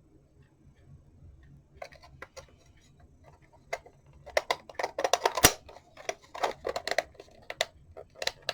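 Clicks and knocks of a wall clock's frame being handled and fitted back onto the clock. A few light clicks come about two seconds in, then a busier run of louder knocks and rattles from about four seconds in.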